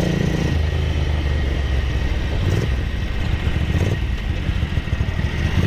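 Ducati 900SS bevel-drive V-twin running under way on the road, its freshly rebuilt engine pulling smoothly. The exhaust note is steady at first, then turns choppy and uneven from about three seconds in.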